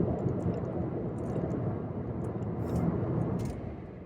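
Road and engine noise inside a moving car's cabin: a steady low rumble that gradually fades toward the end.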